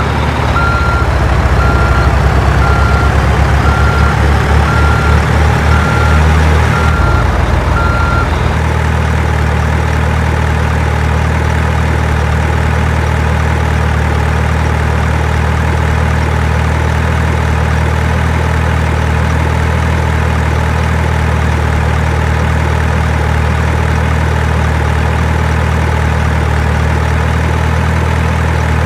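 Truck engine idling steadily, with a reversing alarm beeping about every three-quarters of a second for the first eight seconds or so.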